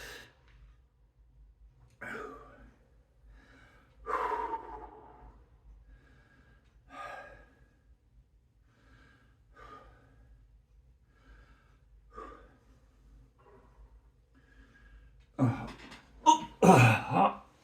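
A man's heavy breathing while exercising: short, soft puffs about every second, with louder, voice-like exertion sounds near the end.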